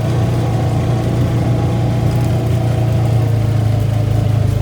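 ATV engine running at a steady speed, an even low drone with no revving up or down.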